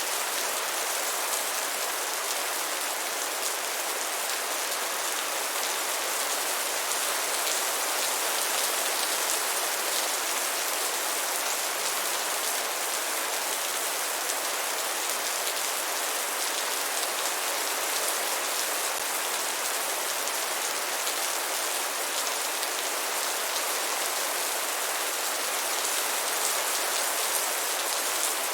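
Steady rain falling, an even hiss of many drops striking a surface, with no thunder and no change in strength.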